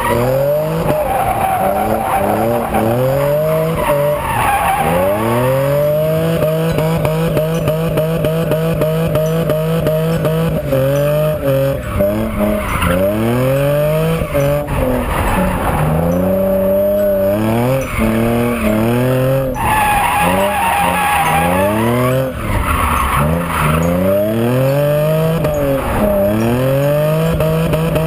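Nissan 350Z's 3.5-litre V6 revving hard while drifting: it climbs, holds high revs for long stretches, drops and climbs again over and over, with the rear tyres squealing and skidding in bursts.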